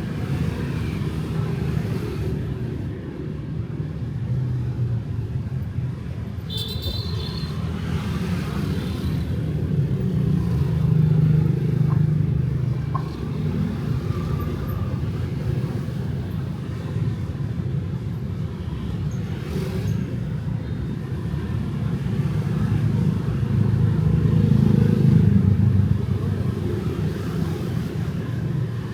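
Night city street traffic with motorbikes and cars: a steady low rumble that swells twice as vehicles pass close, with one brief high-pitched sound about a quarter of the way in.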